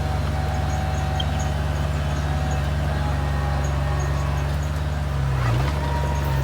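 Komatsu bulldozer's diesel engine running steadily under work, its note dipping briefly about five seconds in.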